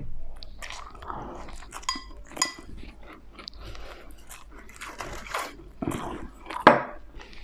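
Close-up eating sounds: wet chewing and crunching of food, mostly dumplings, with a few light clinks of cutlery against a dish, one about two seconds in.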